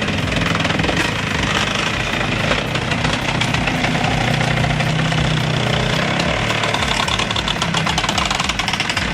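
A machine's engine running steadily with a fast, even knocking pulse.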